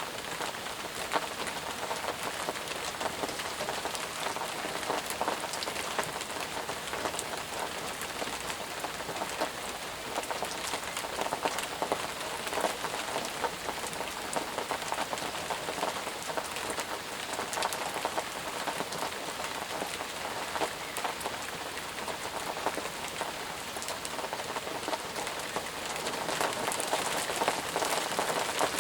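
Steady, intense rain, with many separate drops ticking close by among the even hiss of the downpour. It grows a little louder near the end.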